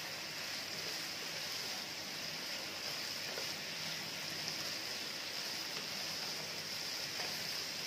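Boneless chicken pieces sizzling steadily as they fry in a wok of tempered oil and are stirred, the final toss of the chicken 65.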